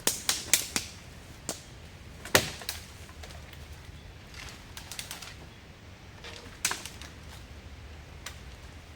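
Irregular sharp clicks and knocks: a quick cluster in the first second, then single louder ones about two and a half and about seven seconds in, over a faint steady hiss.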